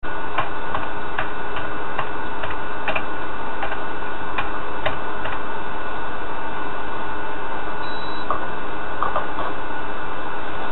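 Typing on a computer keyboard: rapid irregular key clicks over a loud steady hiss with a faint hum. The typing stops about halfway, and a few scattered clicks of a computer mouse follow.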